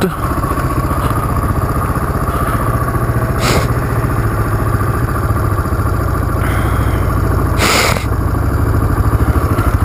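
Suzuki DR350 dual-sport motorcycle's single-cylinder four-stroke engine running steadily at low speed as the bike rolls along a gravel and grass track. Two short hissing rushes break in, a faint one about three and a half seconds in and a stronger one near eight seconds.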